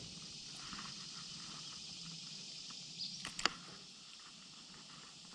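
Quiet outdoor background with a steady high hiss, broken a little past halfway by a few sharp clicks, one of them clearly louder than the rest.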